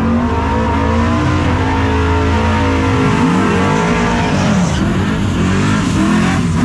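Loud drag-racing truck engines running and revving, their pitch rising and falling several times over a steady low rumble.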